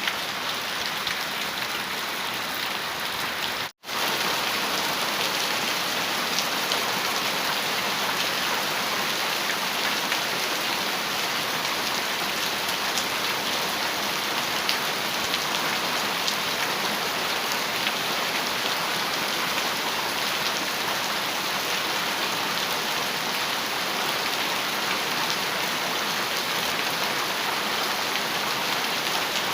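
Heavy rain falling steadily on a metal roof, a dense even patter with scattered louder drops. The sound cuts out for an instant about four seconds in and comes back slightly louder.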